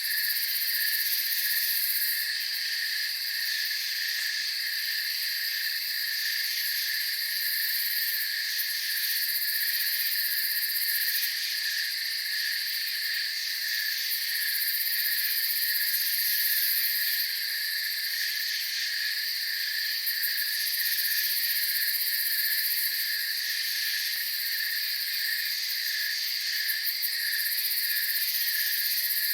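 Night insect chorus of crickets: a steady high trill over a lower chirp that pulses at an even rate, with a fainter high hiss of insects swelling and fading.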